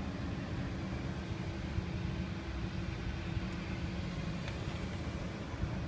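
CAT C15 inline-six diesel engine of a Sterling dump truck idling steadily, a low rumble with a constant hum.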